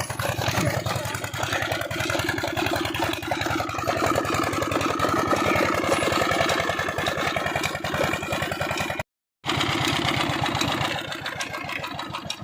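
Old Peter stationary diesel engine running steadily, its firing strokes coming in a fast, even rhythm. The sound cuts out completely for a moment about nine seconds in.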